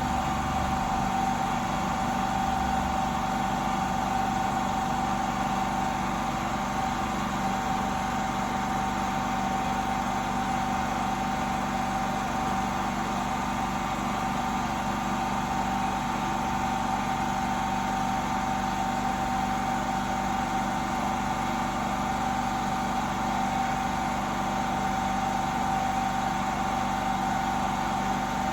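Steady machine hum with a constant high tone over a noisy whir, unchanging throughout.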